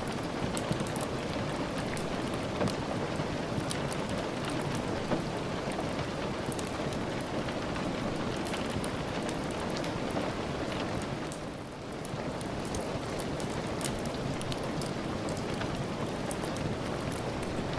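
Steady rain falling, with scattered sharp crackles from a wood fire over it. The sound dips briefly a little past halfway.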